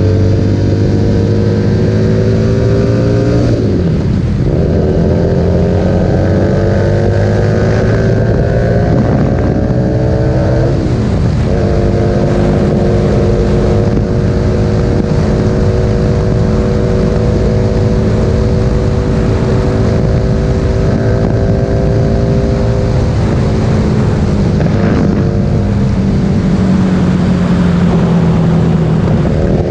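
Harley-Davidson Street Rod 750's V-twin through a Vance Hines exhaust, under way. The engine pulls up through the revs with two upshifts, about 3.5 and 11 seconds in, then holds a steady cruise and eases off slowly near the end. Wind rushes over the microphone throughout.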